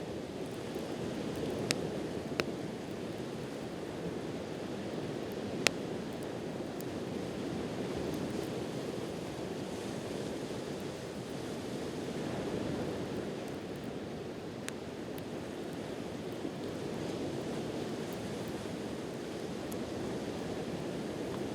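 Sea waves washing steadily on the shore, with a few sharp pops from a wood campfire crackling. The loudest pop comes about six seconds in.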